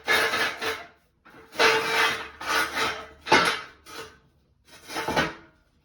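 Metal jack stands scraping and clanking in a series of short bursts, about six over a few seconds, as they are set in place under the jacked-up car.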